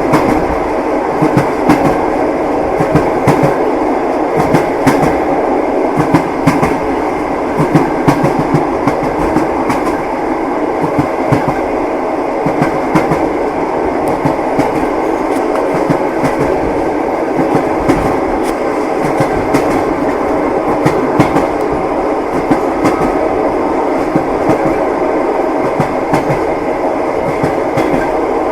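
Moving passenger train: wheels clattering over the rail joints, frequent sharp knocks over a steady rolling rumble.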